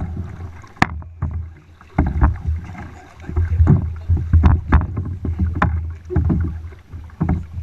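Kayak being paddled: irregular splashes and knocks from the paddle strokes over a steady low rumble.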